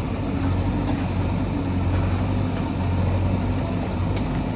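JCB backhoe loader's diesel engine running steadily, its low note working a little harder from about half a second in until near the end.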